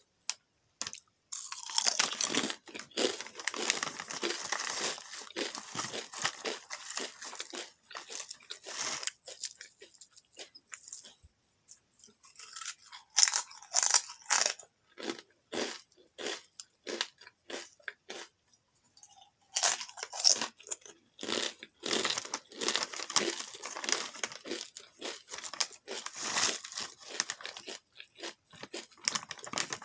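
Someone chewing seaweed-flavoured potato chips with a crisp, dense crunching, in two long bouts with a sparser, lighter stretch and a short pause between them.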